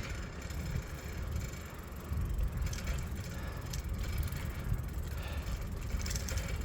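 Riding noise from a moving bicycle: wind buffeting the microphone with tyre and road rumble, broken by a few brief rattles.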